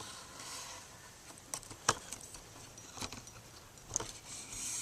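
Camera being handled as it is lowered and aimed: a few faint clicks and rustles, about four sharp ticks spread over the seconds, with a soft hiss near the end.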